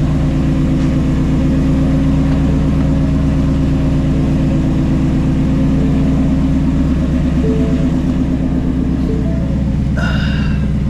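2016 Ford Mustang Shelby GT350's 5.2-litre flat-plane-crank V8, with long-tube headers and a straight-piped exhaust, idling steadily and loudly after a cold start. A brief higher-pitched sound comes in near the end.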